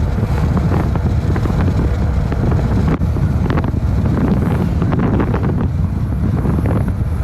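Heavy wind buffeting the phone's microphone: a loud, steady low rumble, with a few faint crackles about halfway through.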